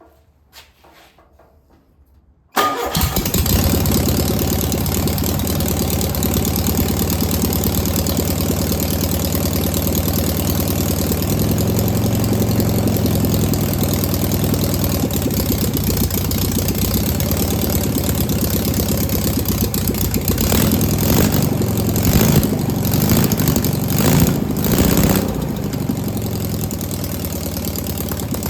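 Air-cooled VW Beetle single-port flat-four engine being started on a test run: it catches about two and a half seconds in and runs steadily and loudly. It swells louder a few times near the end, then settles slightly lower.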